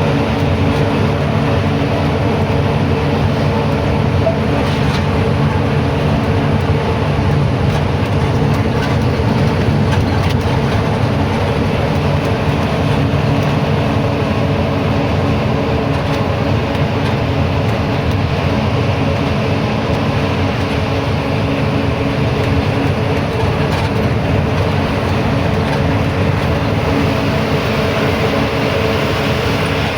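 A truck's diesel engine running steadily with road noise as the truck drives: a loud, even drone with a low hum that holds its pitch throughout.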